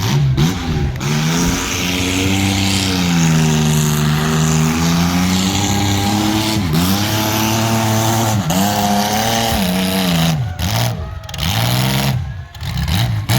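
Outlaw compact demolition-derby car's engine revving hard, its pitch rising and falling over and over and dropping sharply several times as the throttle is let off, over a loud rushing noise.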